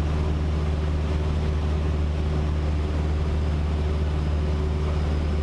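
Cessna 152's four-cylinder Lycoming engine and propeller droning steadily in flight, a constant low hum with no change in pitch.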